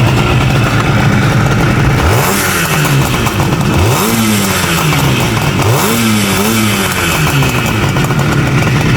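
1974 Suzuki GT185's two-stroke twin-cylinder engine idling through its mufflers, with the throttle blipped about two seconds in, again about four seconds in, and twice in quick succession near six seconds, each rev rising and falling back to idle.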